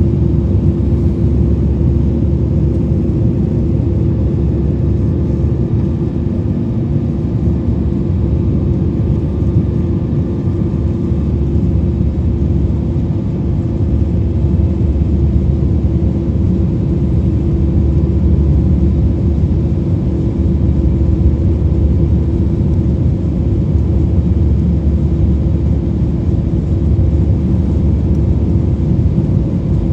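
Steady low rumble of a jet airliner's cabin in flight: engine and airflow noise with a constant hum running through it.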